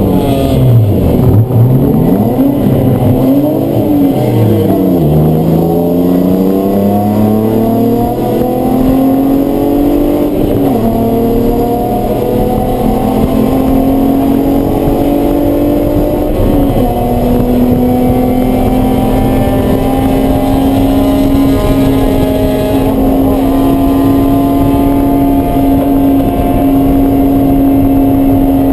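Race car engine under load: the revs rise and fall quickly several times, then climb steadily through three upshifts, each a brief dip in pitch, about 11, 17 and 23 seconds in.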